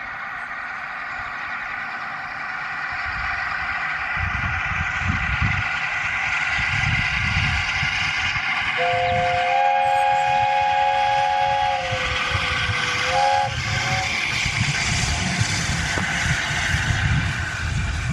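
LNER A4 steam locomotive getting under way, its exhaust beats building and the sound growing louder over the first few seconds. A two-note whistle sounds for about four seconds midway.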